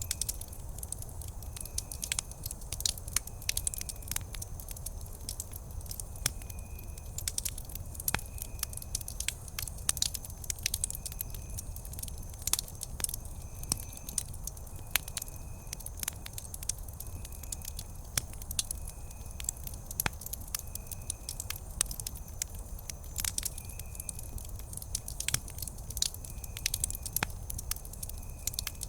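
Wood campfire crackling steadily, with many sharp snaps and pops at irregular intervals over a low steady rumble.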